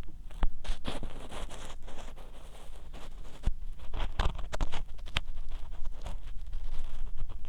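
Ear pick scraping and scratching in the ear of a 3Dio binaural dummy-head microphone, close and loud: irregular scratchy rustles broken by sharp clicks.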